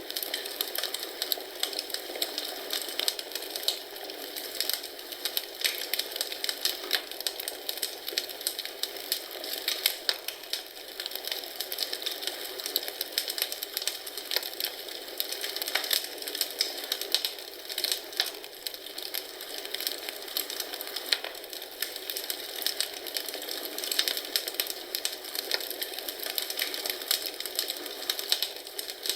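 Wood fire crackling and popping: dense, irregular snaps and pops over a steady hiss.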